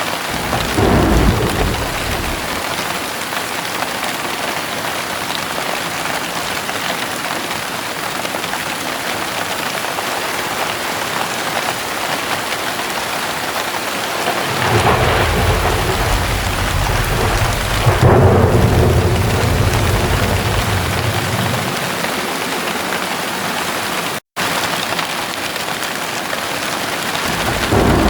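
Steady heavy rain with thunder. A short rumble comes about a second in. A long rumble starts about halfway and swells to its loudest about two-thirds through, and another begins at the very end. The sound cuts out for an instant about three-quarters through.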